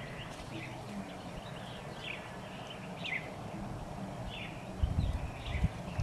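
Birds chirping, short calls repeating about once or twice a second over a steady background hiss. Low rumbling thumps come in near the end.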